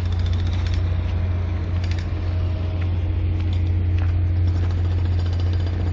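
Machinery on a construction site running with a steady low engine hum, with scattered light clicks and ticks over it.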